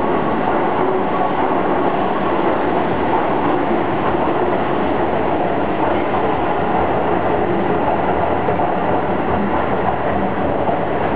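Keihan 8000 series electric train rolling along an underground station platform, with a steady rumble of wheels and running gear and no separate clacks or squeals.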